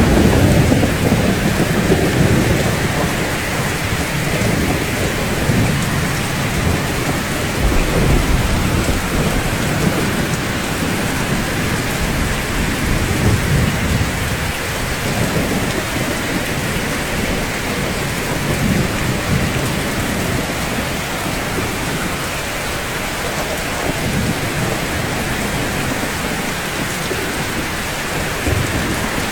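Steady rain falling on rooftops, with low rumbles of thunder underneath that are strongest over the first several seconds and return briefly later.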